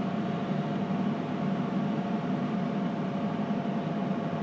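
Heat Wagon P1800 three-phase electric heater running at full heat, its fan blowing steadily with a constant low hum and a thin steady whine.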